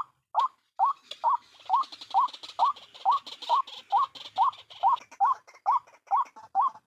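White-breasted waterhen (ruak-ruak) calling: a steady run of short, rising notes at about two a second, the repetitive 'kruak' call that trappers use to lure the bird. A fainter hiss sits behind it from about a second in until about five seconds.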